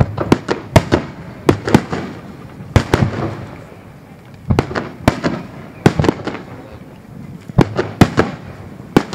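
Aerial firework shells bursting in an irregular barrage: about twenty sharp bangs in quick clusters, each trailing off in a rumbling echo, with short lulls between the clusters.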